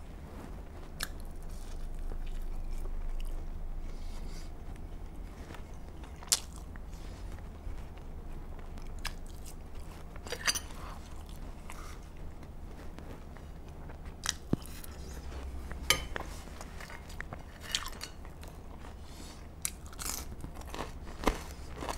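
A person chewing and biting food: air-fried köfte, fries and bread. Soft mouth sounds, broken every few seconds by sharp crunches and wet clicks.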